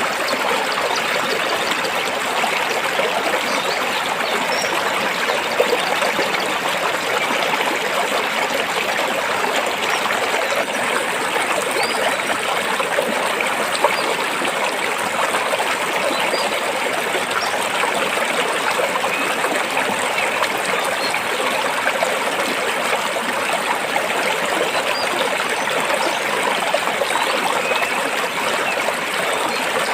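Stream water flowing and trickling between rocks, a steady, even rush with no pauses.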